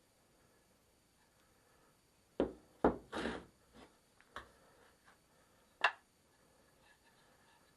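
Objects being handled on a workbench: a quick cluster of sharp knocks with a short scraping rustle, then two more single knocks, against a quiet room.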